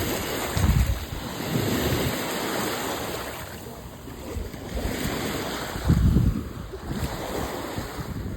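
Surf washing on the shore, with wind buffeting the microphone in low gusts about a second in and again around six seconds.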